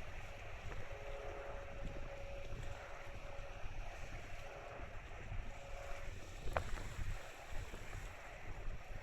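Car ferry's engines rumbling low and steady while it comes into port, with wind buffeting the microphone. A faint steady hum comes and goes through it, and a short sharp sound is heard about six and a half seconds in.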